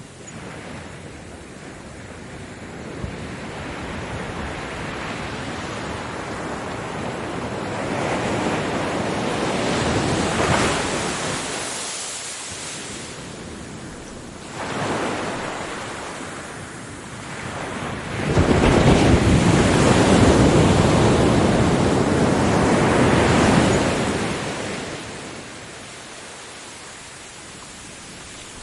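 Ocean waves breaking on a beach, the surf swelling and receding in several surges, the loudest wave crashing about two-thirds of the way through and washing out over several seconds.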